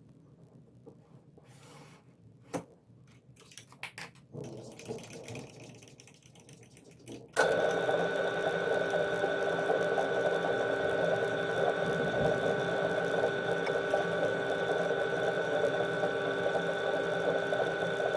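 A few faint clicks, then a small motor starts abruptly about seven seconds in and runs steadily with an even hum.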